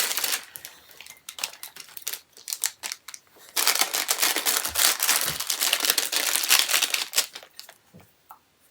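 Plastic packaging crinkling and rustling as it is handled, with light clicks. The crinkling is heaviest from about three and a half seconds in until about seven seconds, then dies away.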